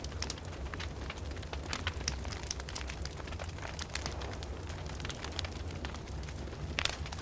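Fireplace fire crackling, with frequent irregular sharp pops and a few louder snaps near the end, over a steady low rumble.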